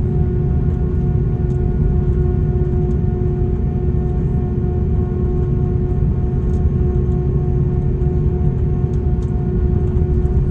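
Airbus A340-600 cabin noise with the Rolls-Royce Trent 500 engines running: a steady low rumble with a constant droning hum over it.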